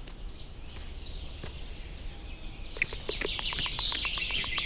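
Birds chirping and singing in woodland, with a quick run of short ticks starting about three seconds in as the chirping grows busier.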